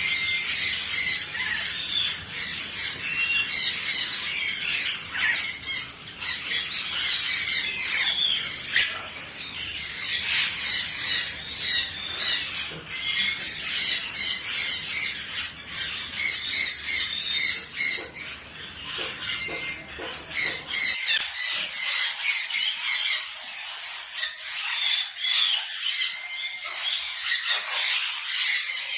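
A group of small birds chattering, with many short high calls overlapping in a continuous stream.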